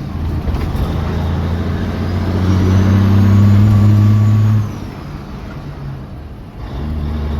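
Foden lorry's diesel engine running through a custom straight-through stainless steel exhaust. It is revved and held at a louder, deeper note for about two seconds, then drops suddenly back to idle, and picks up again near the end.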